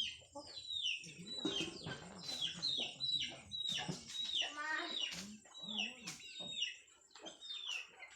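Chickens calling: a run of short, high, falling cheeps about twice a second, with a few lower clucks in between.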